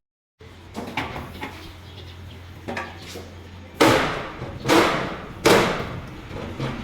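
Three loud blows on metal a little under a second apart, after a few lighter knocks, over a steady low hum.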